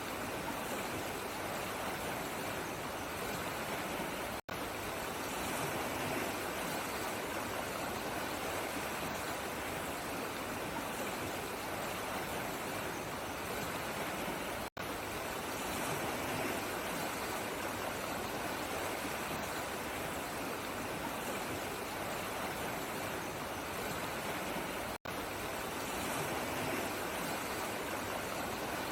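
Steady rush of flowing water, broken by three momentary dropouts about ten seconds apart.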